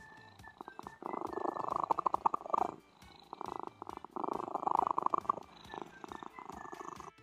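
Domestic cat purring, a fast rattling buzz that comes in stretches of about a second and a half, with short breaks between them as the cat breathes in and out.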